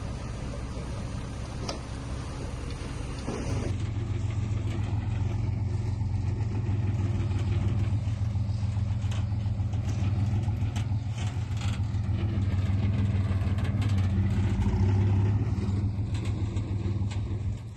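Heavy earthmoving machine's diesel engine running steadily under work, with a low hum that gets louder about three and a half seconds in. Scattered short clicks and knocks are heard over it.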